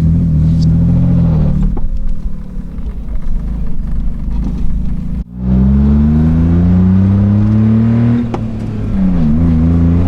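Honda Beat's small three-cylinder engine under way. After a sharp break midway it pulls hard, its pitch climbing steadily for about three seconds, then dips and recovers briefly near the end at a gear change.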